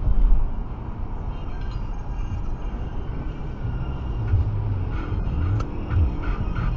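Steady road and engine noise of a car driving at motorway speed, heard inside the cabin. About halfway through, music with a bass beat comes in over it.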